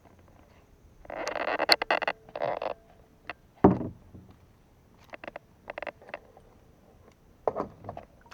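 Water splashing and hollow knocks on a fishing kayak: a couple of short splashes, a sharp thump a few seconds in, then scattered small clicks.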